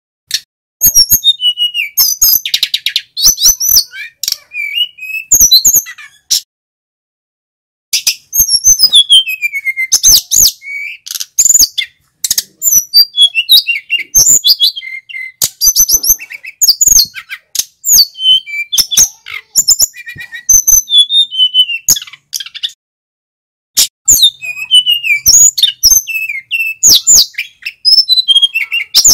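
Male sikatan gunung (an Indonesian mountain flycatcher) singing loudly and continuously: rapid runs of high chirps, whistled slurs and trills, broken by two short pauses, about a quarter of the way in and again about three quarters of the way in.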